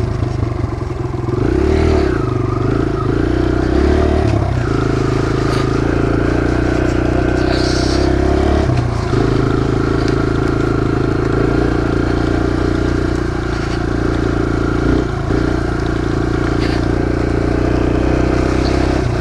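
Kawasaki KLX140 dirt bike's four-stroke single-cylinder engine running as the bike is ridden. The engine pitch shifts a few times in the first nine seconds, then holds steady.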